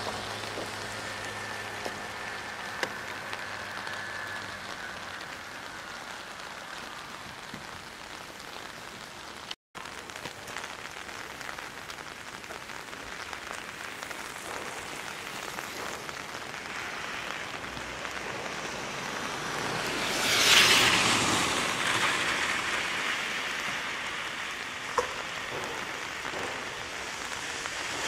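Steady hiss of rain. A low machine hum fades out in the first few seconds, and about twenty seconds in a loud hiss swells and dies away over roughly two seconds.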